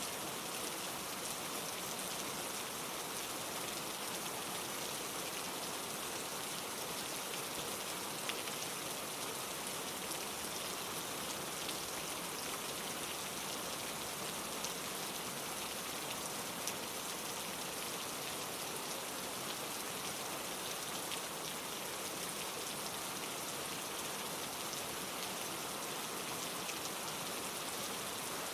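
Steady rain falling: an even hiss with scattered faint ticks of single drops.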